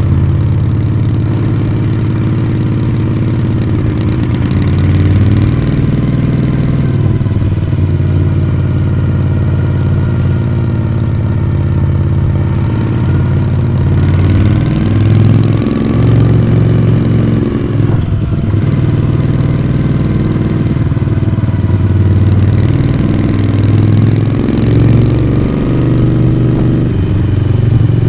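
Moto Guzzi V35's air-cooled V-twin engine and exhaust running on the move, the engine note rising and falling with the throttle and dipping briefly about two-thirds of the way through.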